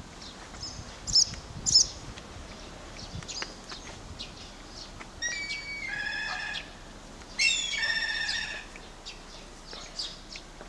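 Birds calling: a few short high chirps in the first two seconds, then two longer calls a couple of seconds apart, the second the loudest and opening with a downward slide.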